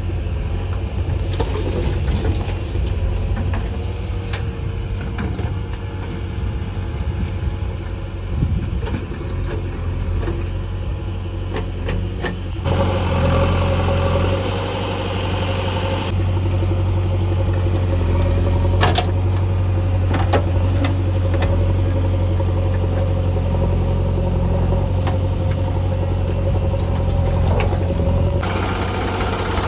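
Diesel engine of earthmoving machinery running steadily with a deep hum, with a few sharp knocks over it; the sound gets louder a little under halfway through.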